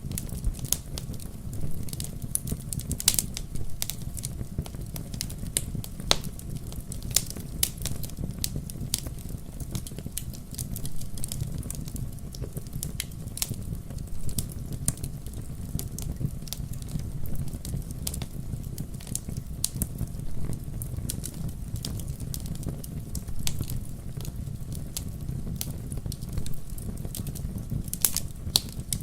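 Wood logs burning in a fireplace: a steady low rumble of the flames with irregular crackles and occasional sharper pops.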